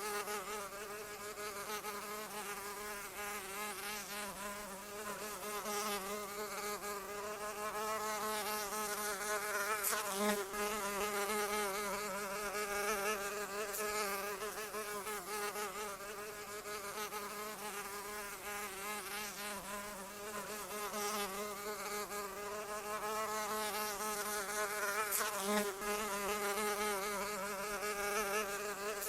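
Continuous buzz of a flying insect's wings, its pitch wavering slightly up and down and its loudness swelling and easing gently, with a few faint clicks.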